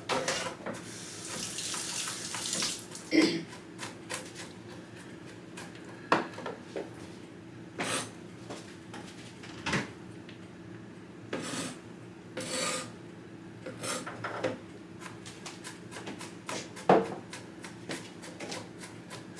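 Knife chopping on a cutting board: irregular light taps and knocks, with a few louder knocks, over a steady low hum.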